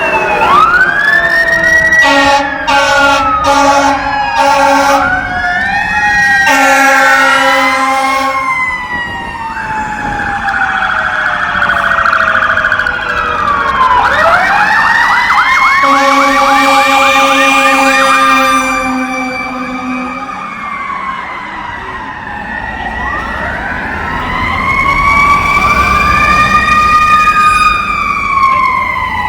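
Fire apparatus responding on an emergency call: several sirens wailing and yelping over one another, with air horns blasting, first in a run of short blasts about two seconds in, then in longer blasts around seven and sixteen seconds in.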